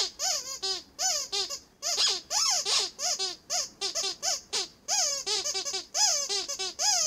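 Squeaky rubber toy squeezed over and over in a quick irregular series of short squeaks, each sliding up and down in pitch.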